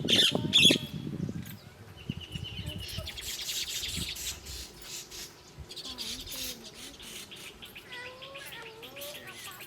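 Small birds chirping: a quick run of high chirps about two seconds in, then rapid buzzy chatter. A few loud knocks at the very start.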